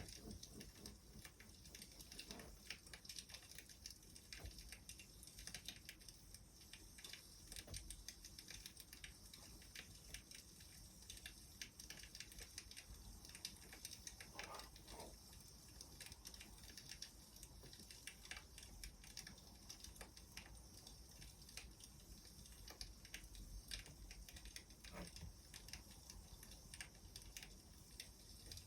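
Wood fire crackling faintly: irregular small pops and snaps over a soft steady hiss.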